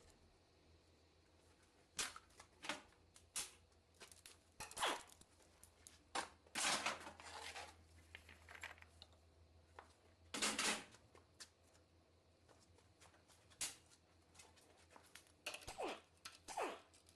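Irregular clicks, clanks and short scrapes of hand tools and metal engine parts being handled during a diesel engine teardown, over a faint steady low hum.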